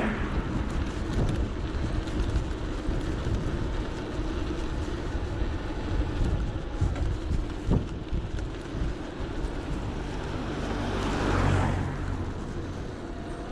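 Wind rushing over the microphone and road noise from an electric bike riding along a road, with a vehicle passing about eleven seconds in.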